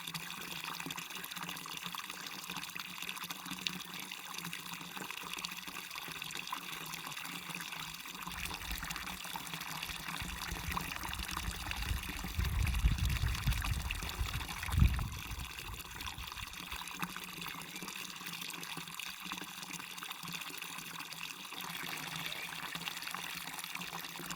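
Waterfall: steady rushing and splashing of falling water. About halfway through, a low rumble swells for a few seconds and ends in a brief thump, the loudest moment.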